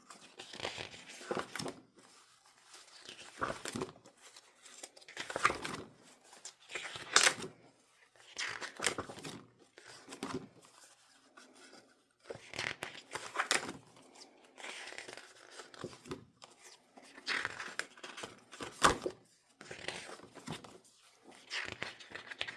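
Stiff paper pages of a desk calendar being flipped one after another, a short rustle and flap every second or two.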